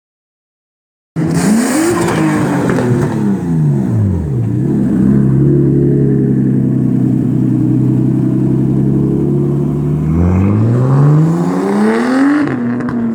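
A motor vehicle engine that starts abruptly about a second in, falls in pitch, holds a steady speed for several seconds, then revs back up before cutting off suddenly near the end.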